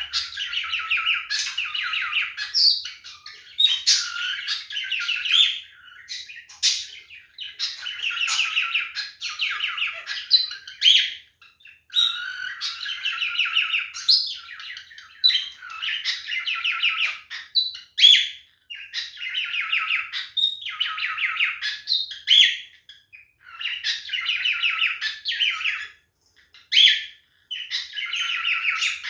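Male cockatiel singing its courtship song: fast warbling chatter in phrases of a second or two, broken by short gaps and sharp single whistles.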